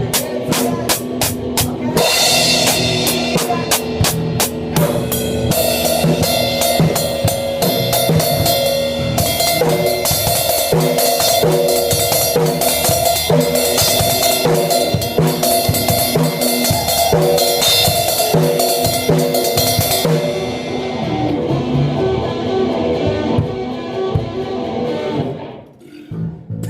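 A band playing loudly: a drum kit with kick and snare hits, under guitar. About 20 seconds in the playing stops, and the last chord and cymbals ring out and fade over a few seconds.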